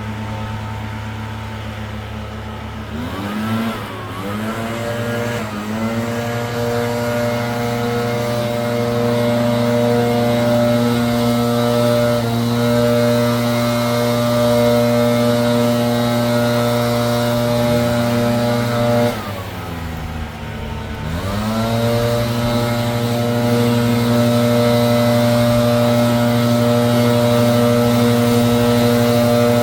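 Gas leaf blower engine running at high throttle. The throttle drops off and the engine revs back up about three seconds in and again about twenty seconds in.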